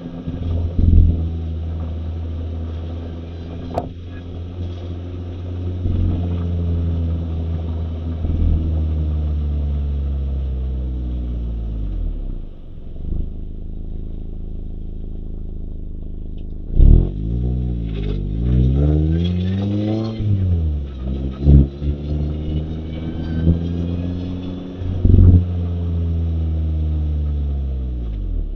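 Mazda MX-5 (ND Roadster 990S) 1.5-litre four-cylinder engine pulling along under way, its note mostly steady, dropping and rising again with gear changes of the manual gearbox, twice in quick succession about two-thirds of the way in. A few sharp knocks stand out.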